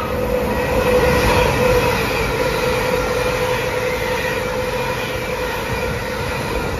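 An LNER Azuma (Hitachi Class 800-series) express runs through the station at speed without stopping. Its wheel rumble grows louder about a second in as it comes alongside, with a steady whine over it as the carriages pass.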